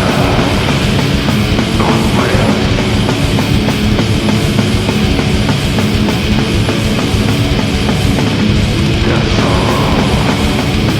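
Heavy metal music with distorted guitars and drums: a dense, loud, unbroken wall of sound.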